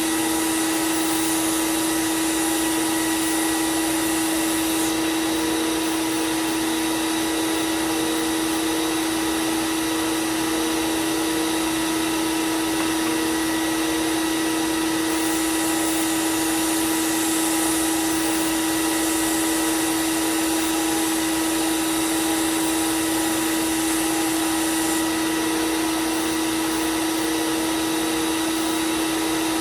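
Belt sander running steadily with a constant motor hum as a knife blade is thinned on the belt. A brighter hiss is stronger for the first few seconds and again from about 15 to 25 seconds in.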